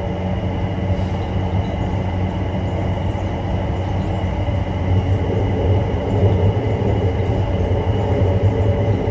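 Airport shuttle train running through its tunnel, heard from inside the car: a steady rolling noise over a low hum, with faint steady high tones, growing a little louder about halfway through.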